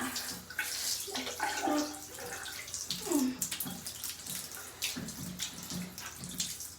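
Shower water running from a tap into a bathtub and splashing, while a cat is washed under it.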